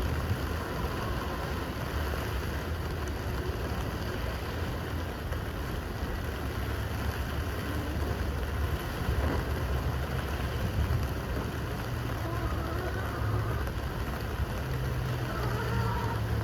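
Steady rain with a low rumble underneath.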